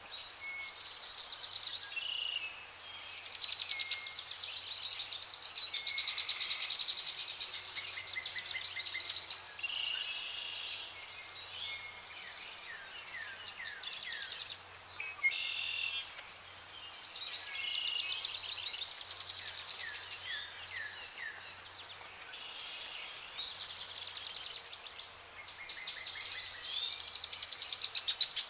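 Several songbirds singing and chirping at once, a busy chorus of quick trills and repeated notes that swells and eases, loudest near the end.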